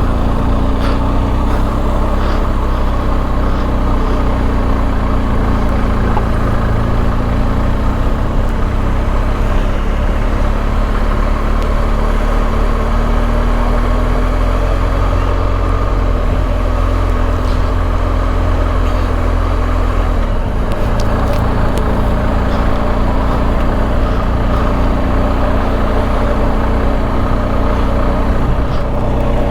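An engine running steadily under a rushing noise, its pitch drifting slowly and shifting about twenty seconds in.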